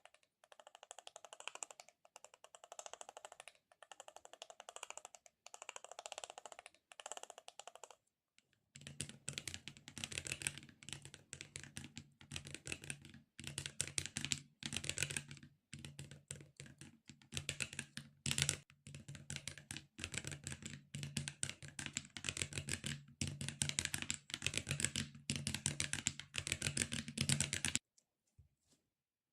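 Close-miked ASMR handling of sticky and squishy objects: rapid crackly clicks and tacky ticks. A softer run comes in rhythmic swells for about eight seconds, breaks off briefly, then a louder, denser run follows and stops suddenly near the end.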